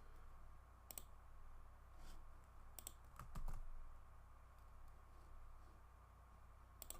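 A handful of separate, faint keystrokes on a computer keyboard, spread out with pauses between them, over a steady low hum.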